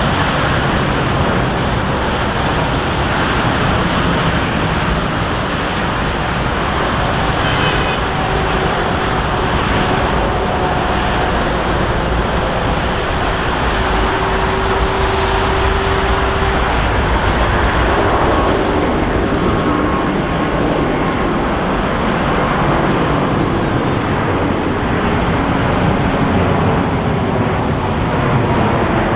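Lufthansa Airbus A350-900's Rolls-Royce Trent XWB turbofans running as the jet passes close by: a loud, steady rush with faint whining tones.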